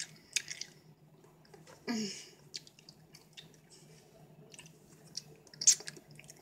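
A person chewing bacon dipped in sauce, with small wet smacks and clicks of fingers at the plate and sauce cup. A brief falling vocal sound comes about two seconds in, and a sharp tap near the end is the loudest sound.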